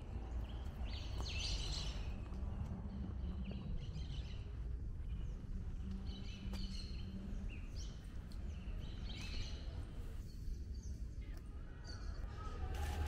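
Small birds chirping in short scattered calls from the garden trees, over a steady low background rumble.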